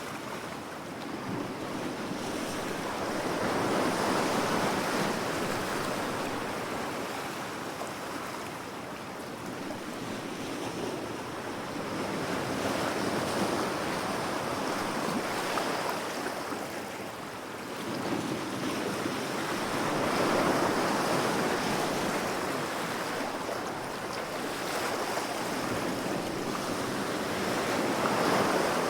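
Ocean waves breaking and washing up the shore, a steady rushing surf that swells and falls back in slow surges, about four in the span.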